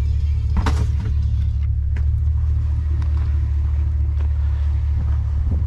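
A steady low rumble, with a few short knocks and rustles from items being handled while rummaging through trash.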